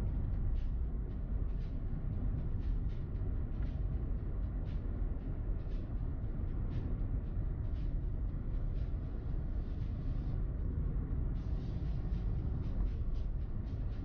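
A car driving, with a steady low road rumble and faint short ticks about once a second.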